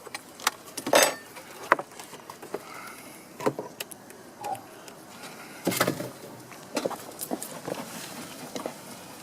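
Scrapes, knocks and clicks of a wooden beehive frame being worked loose and lifted out of the hive box, the frames stuck together with crust. The loudest scrapes come about a second in and again near six seconds.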